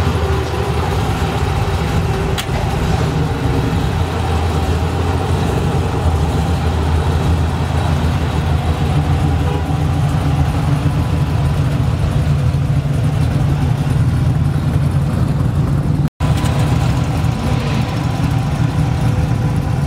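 Car engine running steadily with a deep low rumble. The sound cuts out for an instant about 16 seconds in.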